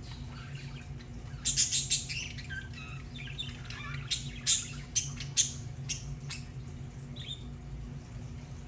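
Budgerigars chirping and chattering: a burst of loud chirps about a second and a half in, then several sharp calls around four to five and a half seconds in, with softer warbling between, over a steady low hum.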